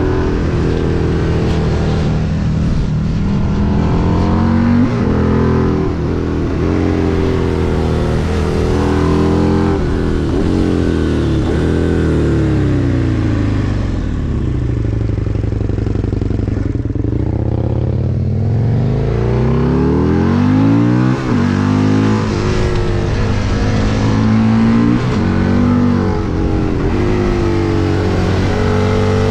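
Husqvarna Nuda 900's parallel-twin engine heard from on board the motorcycle, revving up and dropping back over and over as the rider accelerates and changes gear. About 12 seconds in the revs fall away slowly for several seconds, as when slowing for a bend, then climb again from about 18 seconds.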